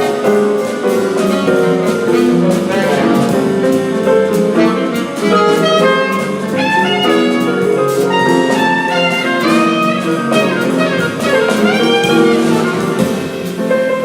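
Live jazz combo playing: saxophone lines over piano and a drum kit with cymbal strokes.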